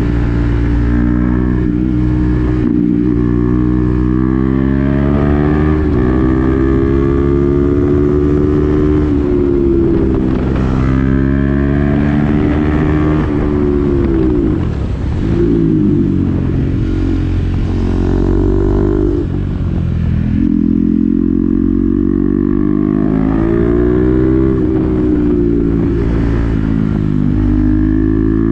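KTM Duke 390's single-cylinder engine through an SC-Project exhaust with the dB killer fitted, riding through the gears: the pitch climbs and drops back in steps as it shifts, falls sharply about fifteen seconds in as the bike slows, and falls again about twenty seconds in before climbing once more.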